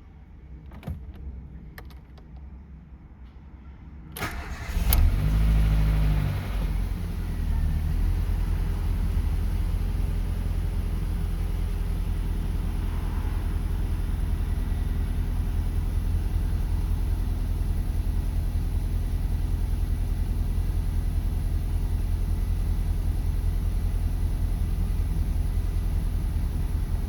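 Ford Ka's 1.0 8-valve Zetec Rocam four-cylinder engine cold-started after standing two weeks: a few faint clicks, then a brief crank about four seconds in, and it catches at once. It flares to high revs for a second or two, then settles to a steady idle.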